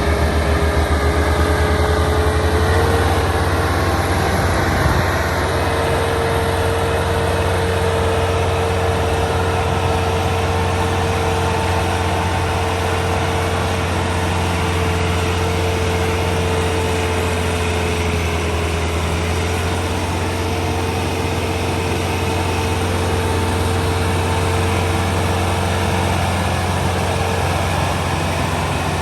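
Tractor diesel engine running steadily, with a steady whine above its low note that steps up slightly in pitch about three seconds in.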